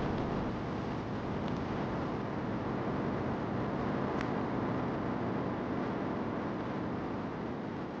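Steady rain hiss mixed with a crackling fire, with a couple of sharp pops, the clearest about four seconds in.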